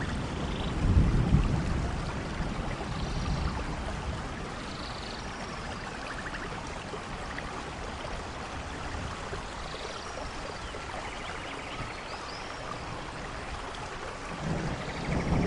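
Steady heavy rain in a rainforest, with low rolling thunder rumbles about a second in and again near the end. Faint high chirping calls sound through the rain now and then.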